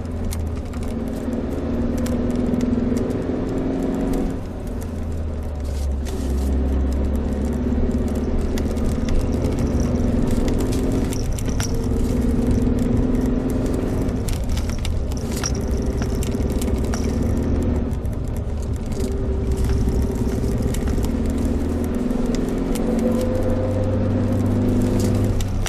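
Suzuki Jimny Sierra on the move, its engine running steadily under road rumble, the engine note shifting in pitch several times as the revs change, with light rattles.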